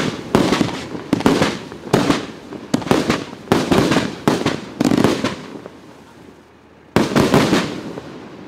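Riakeo 'Dubai' 84-shot 30 mm firework cake firing: a rapid string of shell bursts, about two bangs a second. It dies away about five seconds in, then a fresh cluster of bangs comes at about seven seconds.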